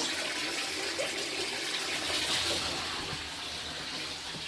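Water running from a faucet, getting slowly quieter.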